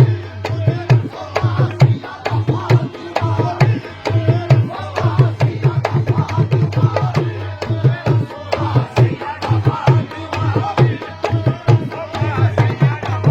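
Qawwali music: fast, steady dholak drumming with deep bass strokes and a wavering melody line over it.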